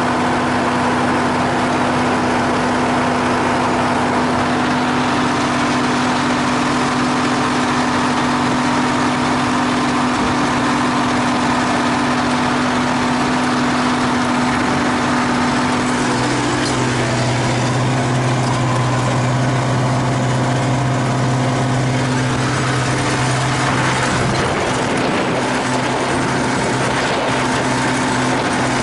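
A T-150K wheeled tractor's diesel engine running steadily while it warms up. Its note changes about halfway through and again a few seconds later.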